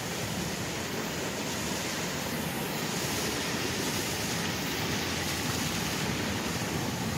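Floodwater gushing under pressure from a culvert pipe: a steady rushing of water.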